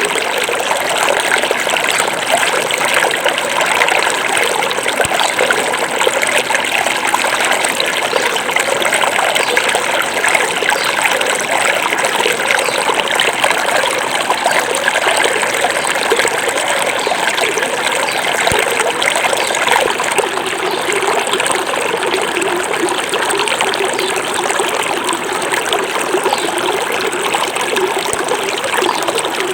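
Small forest river flowing and babbling over stones: a steady, even rush of water.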